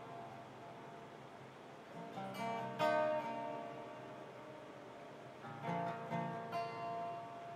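Acoustic guitar strummed slowly with no singing. Clusters of chords about two seconds in and again near the end, ringing and fading in between.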